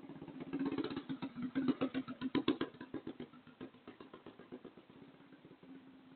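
Mini bike's small single-cylinder engine running at low speed, its separate firing beats plainly audible. It gets louder to a peak about two seconds in, then fades away, leaving a steady low hum.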